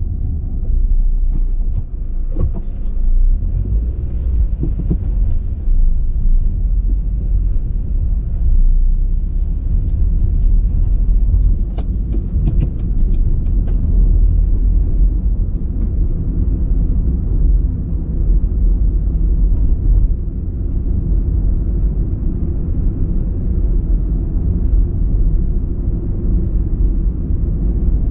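A car driving along, a steady low rumble of engine and road noise, with a short run of sharp clicks about twelve seconds in.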